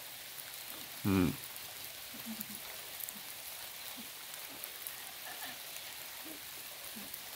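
Steady rain, an even hiss with faint scattered drop ticks. A short vocal sound comes about a second in.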